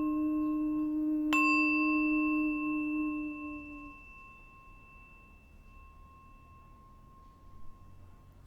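A bell-like metal instrument is ringing from an earlier strike. It is struck again about a second in, and its several tones die away slowly over the next few seconds.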